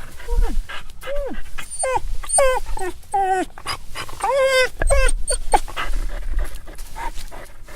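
Dog whining and crying: a rapid run of short, high-pitched whines, many rising and then dropping in pitch, one after another.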